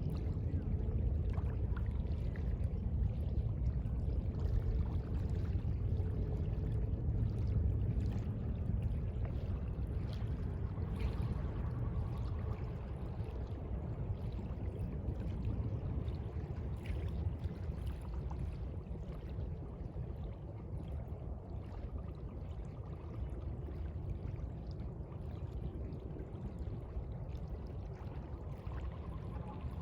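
Sea water washing and lapping: a steady low rush with small splashes, easing slightly in the second half.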